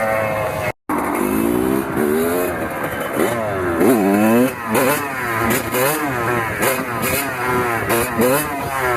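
Kawasaki KX100 two-stroke dirt bike engine revving up and down again and again as the throttle is worked, its pitch rising and falling in quick sweeps. The sound cuts out completely for a moment about a second in.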